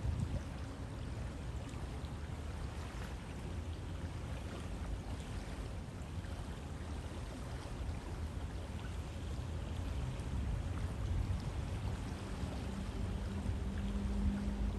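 River water flowing steadily: a continuous rushing sound with a deep low rumble.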